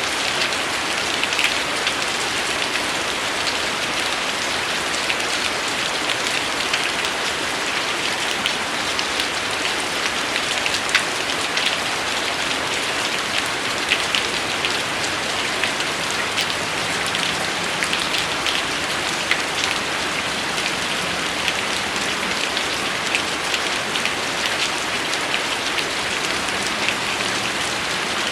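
Steady rain falling, a dense even hiss with many separate drops ticking sharply on a surface.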